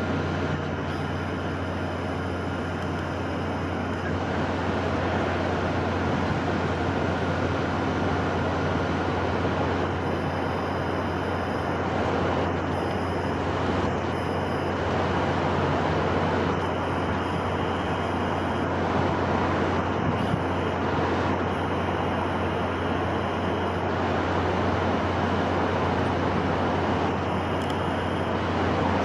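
Steady wind ambience: an even rushing noise with a constant low rumble underneath.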